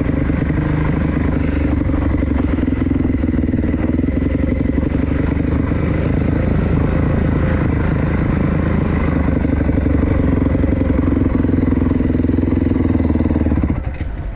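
Dirt bike engine running at a steady throttle while riding, with some clatter over it. The engine sound drops away sharply near the end.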